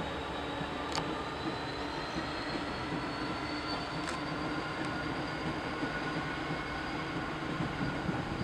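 Dublin–Belfast Enterprise passenger train crossing the steel girder span of a viaduct: a steady rumble of wheels on the bridge with a thin high whine that slowly rises in pitch. A couple of sharp clicks come about a second and four seconds in.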